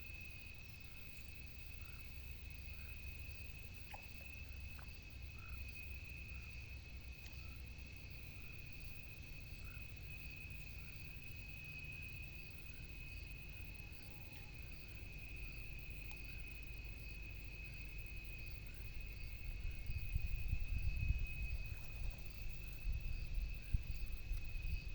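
A steady high insect trill, with faint short chirps repeating about once or twice a second. A low rumble of wind or handling on the microphone grows louder near the end.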